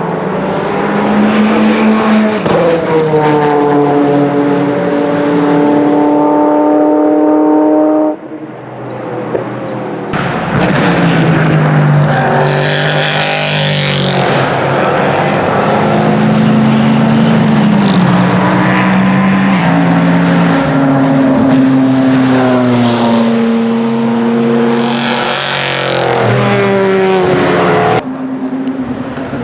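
Bentley Speed 8's 90° twin-turbo 4.0-litre V8 racing past at speed, its note stepping through gear changes as it goes by. Several separate passes follow one another with abrupt cuts between them.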